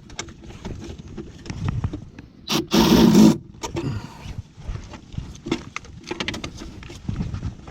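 Clicking, knocking and scraping of hand tools and metal panel parts being handled and fastened, with one loud, rough burst of noise about three seconds in.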